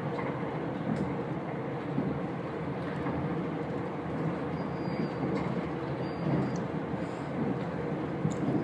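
Diesel passenger train running at speed, heard from inside the carriage: a steady rumble of the wheels and running gear on the rails, with a faint steady hum.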